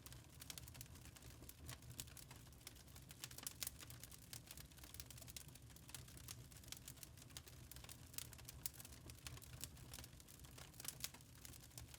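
Wood fire crackling faintly in a fireplace: irregular sharp snaps and pops, several a second, over a low steady hum.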